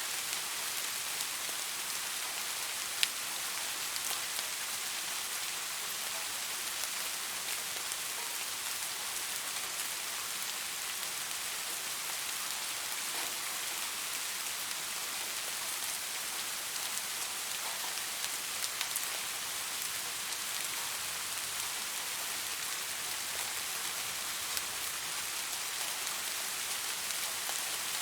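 Steady rain falling, an even hiss with scattered drops ticking on a surface, one sharper drop about three seconds in.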